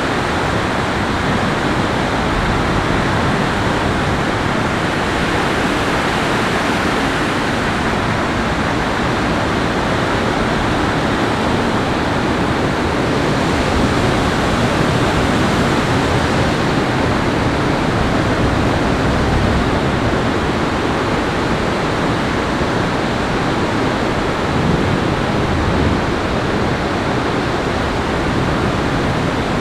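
Steady, even rushing of water, with no breaks or distinct events.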